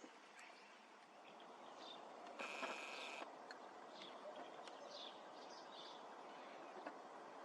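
Faint outdoor ambience with small birds chirping now and then, and a brief whirring sound with a steady whine lasting just under a second, about two and a half seconds in.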